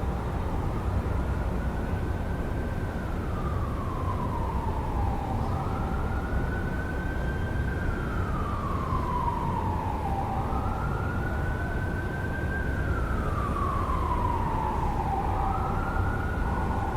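An emergency vehicle siren in a slow wail, rising and falling about every five seconds, three times over, above the steady rumble of city traffic.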